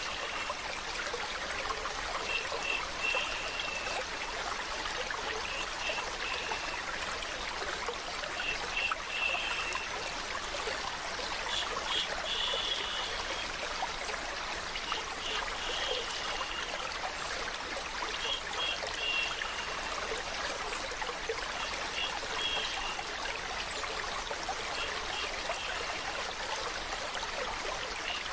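Steadily running water, like a stream flowing, with short high-pitched tones coming and going every second or two over the rush.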